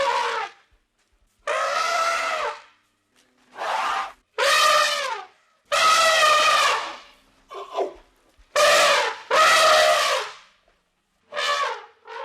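Elephant trumpeting: a series of about eight loud trumpet calls, each lasting around a second, with short silent gaps between them.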